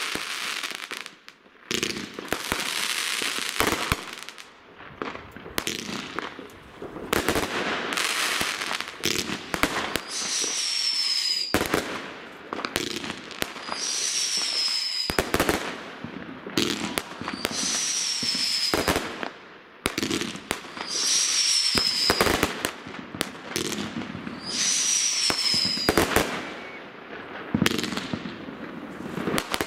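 Fireworks going off: a string of sharp bangs and surges of crackling. From about a third of the way in, a short high whistle that falls slightly in pitch comes back about every three and a half seconds, each one followed by crackle.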